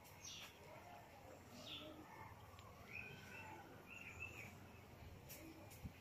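Faint background ambience with distant birds giving short, high chirps now and then.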